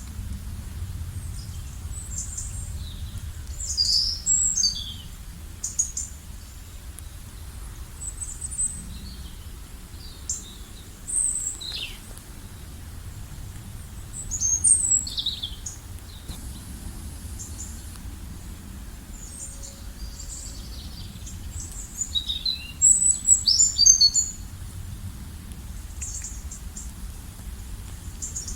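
Songbirds chirping and singing in short, scattered phrases of high chirps and trills, in a busier flurry near the end, over a steady low background rumble.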